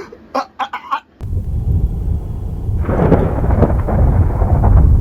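Thunder rumbling: a deep rumble starts about a second in and swells into a louder, fuller roll of thunder about three seconds in.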